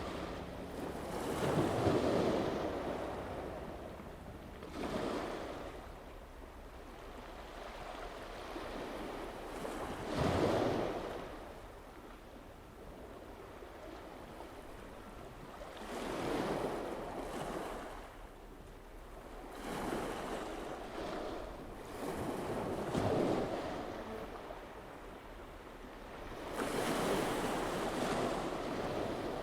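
Small waves washing in at the water's edge, surging and falling away every few seconds, with wind noise on the microphone.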